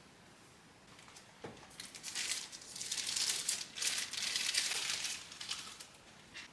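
Crinkling and rustling of something being handled, in several bursts after a light click.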